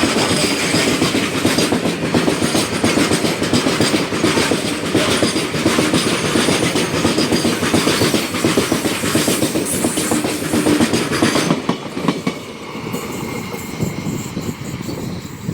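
A train passing close by, its wheels clattering over the rail joints in a dense, continuous rattle. About twelve seconds in the noise drops sharply as the end of the train goes by.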